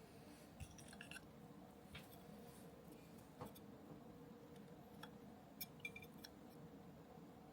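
Faint, scattered light clicks and ticks, about nine in all, from small parts and tools being handled during the assembly of an R/C truck kit, over a low steady room hum.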